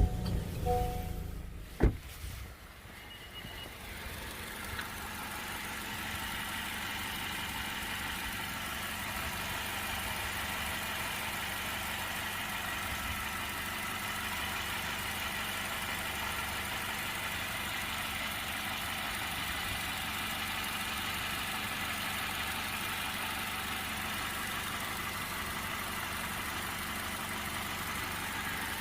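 Honda minivan engine starting and then idling steadily, with short electronic beeps and a click at the start.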